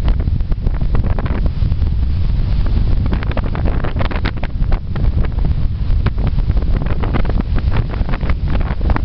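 Sea waves washing on the beach under heavy wind buffeting the microphone, with a dense crackle of small clicks throughout.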